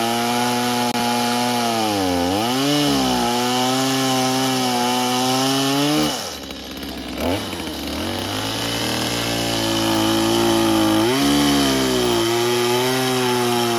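Small petrol engine on a power tool running steadily at high speed. Its pitch sags and recovers twice, about two seconds in and around six seconds in, as it takes load.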